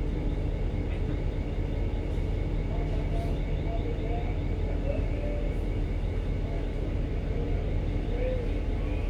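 Steady low drone of a ship's engine and machinery, with faint distant voices.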